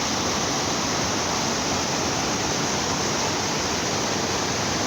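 Steady rush of fast-flowing water, an even noise that holds without change.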